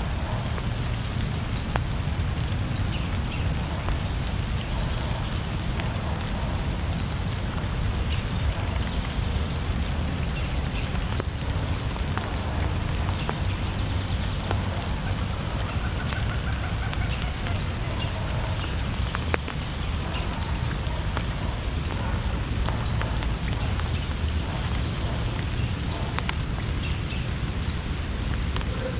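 Steady hiss of rain falling, with a deep rumble underneath throughout.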